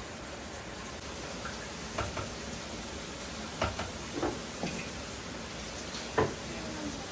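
A handful of short, light knocks and clicks, scattered over a few seconds with the loudest near the end, over a steady hiss.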